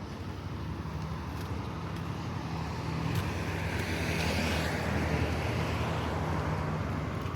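A motor vehicle driving past, its engine and tyre noise swelling to a peak about four seconds in, then easing off slightly.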